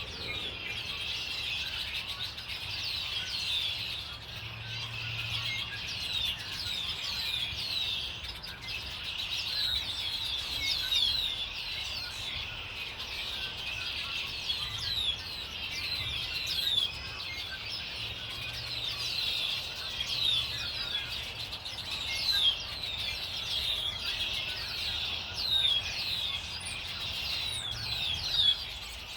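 A flock of small songbirds chirping together, a dense, unbroken chatter of many short, quickly falling chirps overlapping one another.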